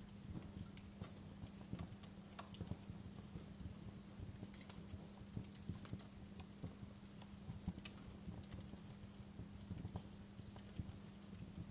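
Wood fire crackling in a fireplace: irregular small pops and snaps over a steady low hum.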